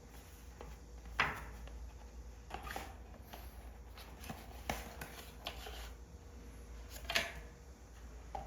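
Objects being unpacked and handled on a hard surface: scattered light knocks and clatters, the loudest about a second in and again near the end, with softer handling sounds between.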